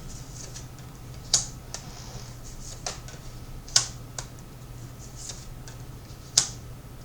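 Tarot cards being handled and laid down: a handful of sharp, separate clicks and taps a second or so apart, over a low steady hum.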